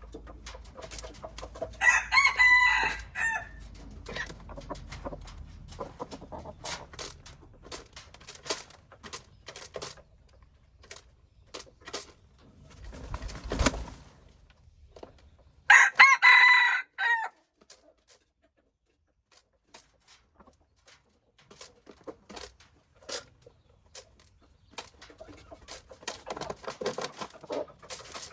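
A rooster crowing twice, two loud calls about fourteen seconds apart, with scattered faint clicks between them.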